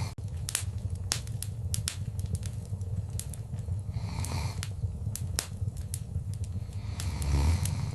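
Wood fire crackling in a fireplace: sharp, irregular pops and snaps over a steady low rumble of burning, with a brief louder low surge about seven seconds in.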